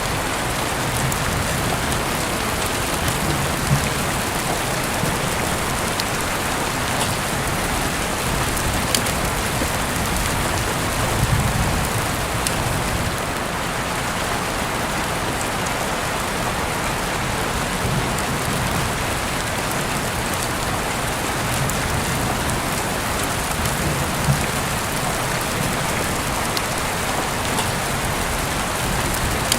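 Heavy rain falling steadily, with a few sharper drop hits now and then.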